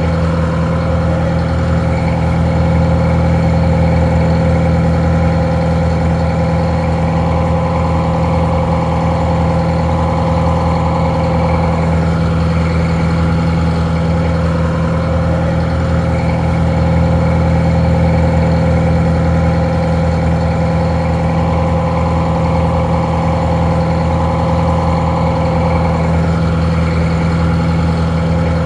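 Detroit Diesel 4-71 four-cylinder two-stroke diesel engine idling steadily, sounding a little muffled.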